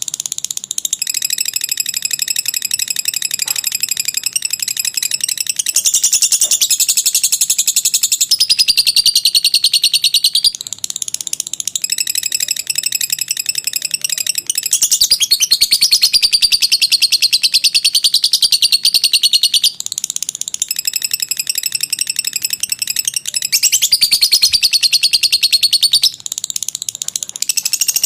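Lovebird singing its long 'ngekek' song: rapid, high-pitched chattering in unbroken runs of several seconds, with short breaks between runs.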